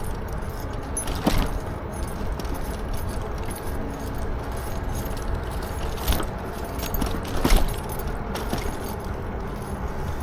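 Lectric XP4 e-bike rattling and clinking as it rolls along the path, with sharper knocks about a second in, around six seconds in and, loudest, near seven and a half seconds, over a steady low rumble of wind on the microphone.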